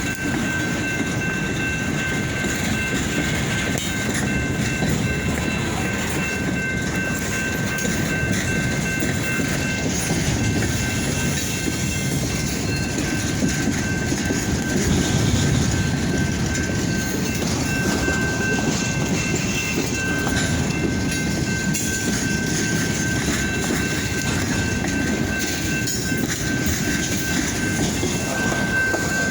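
Freight train of chip cars moving on the rails: a steady low rumble of wheels and cars, with a thin steady whine above it.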